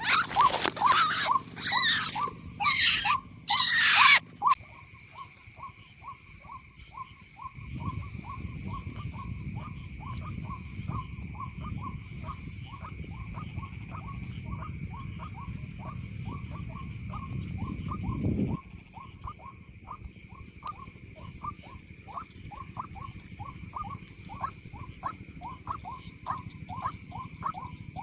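White-breasted waterhen calls: loud, harsh squawks for the first four seconds or so, then a steady run of short clucking calls, about three a second, from a waterhen lure call played on an MP3 speaker. Steady insect trilling sits behind them, and a low rumble is heard from about a quarter of the way in until past the middle.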